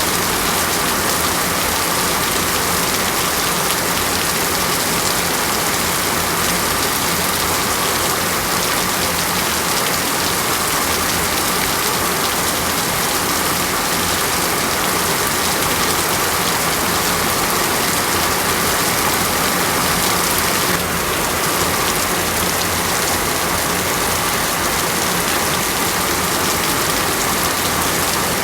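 Steady heavy rain falling on a surface, a dense even hiss of drops.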